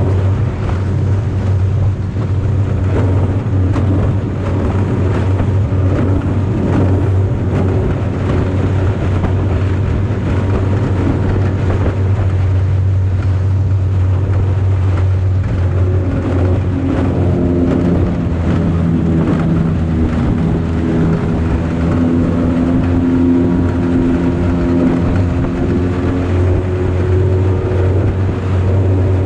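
5 hp Yamaha two-stroke outboard motor running steadily at speed, pushing a small aluminium boat. A continuous loud drone, with a second wavering tone rising above it for several seconds past the middle.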